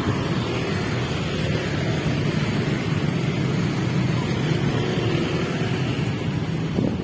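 Steady low rumble of heavy vehicle noise at a railway level crossing, holding an even level throughout.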